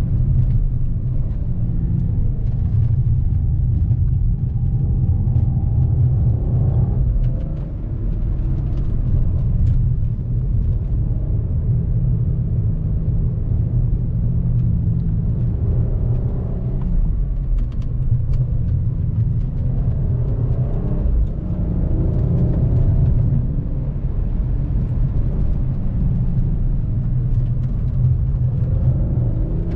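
Volkswagen CC's 3.6-litre VR6 engine and road noise while driving: a steady, loud low rumble, with the engine note rising and falling now and then.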